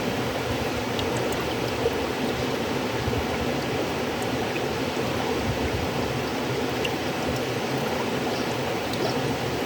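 River water flowing steadily, an even rushing noise with small faint splashes and drips.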